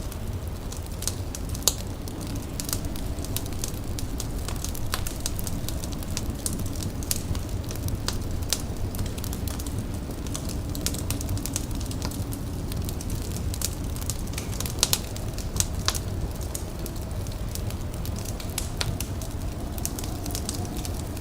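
Indoor wood fire crackling, with irregular snaps and pops over a steady low rumble.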